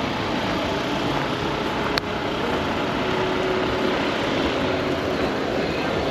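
Steady vehicle engine noise, with a single sharp click about two seconds in.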